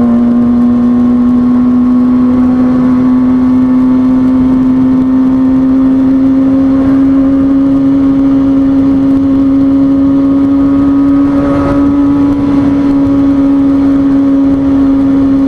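Kawasaki ZX-6R 636 inline-four engine holding a steady cruise. Its drone rises slowly in pitch as the bike gradually gains speed.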